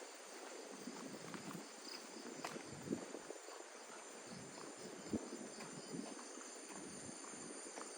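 Insects chirping steadily in several high tones, with a rapid pulsing chirp through the first half. A few soft footfalls thud underneath.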